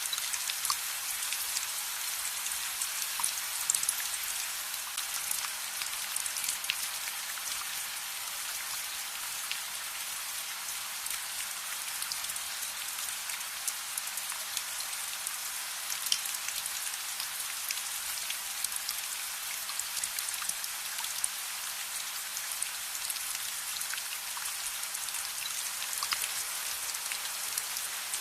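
Steady rain: a dense, even hiss scattered with brief sharp ticks of drops.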